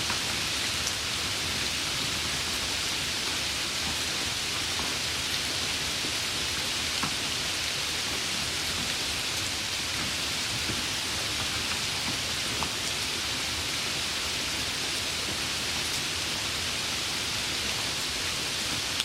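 Steady rain: an even hiss of falling rain, scattered with faint ticks of single drops.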